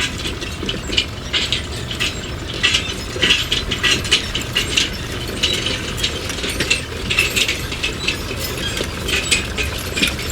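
Irregular mechanical clicking and rattling over a steady low hum.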